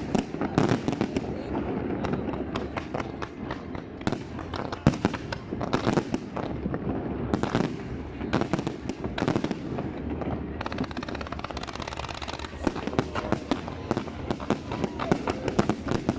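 Fireworks display going off continuously: many sharp bangs and crackles in quick, irregular succession over a steady rumble.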